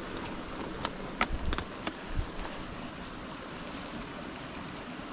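Footsteps of a hiker crossing wet, slippery rock: several short knocks and scuffs in the first two seconds or so, over a steady rushing outdoor noise.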